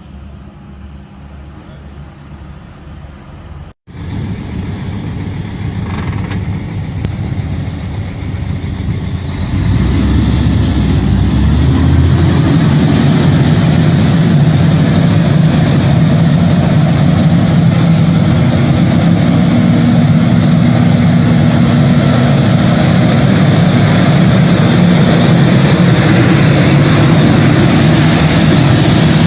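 Heavy tractor engine running hard under load. It grows louder after a cut a few seconds in, then holds loud and steady.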